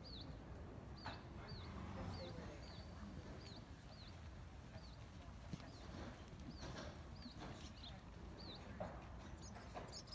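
A small songbird calling a short, falling high chirp over and over, about two a second, stopping near the end, over a steady low rumble.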